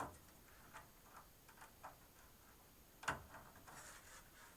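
Small clicks and taps from handling front-panel cable leads and connectors inside a computer case, with one louder click about three seconds in.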